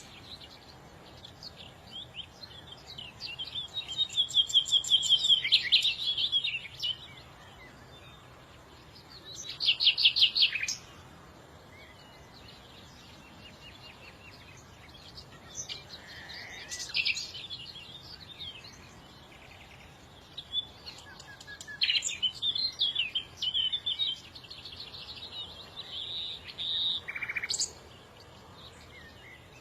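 Small songbirds chirping and singing in short bursts of rapid high trills and twitters, with quieter gaps of a few seconds between.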